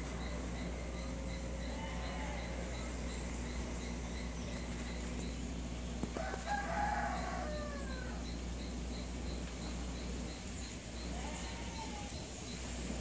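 A bird's call, one pitched crowing call about six seconds in that rises and falls, and a shorter, fainter call near the end. Beneath it are a steady low rumble and a faint high ticking about three times a second.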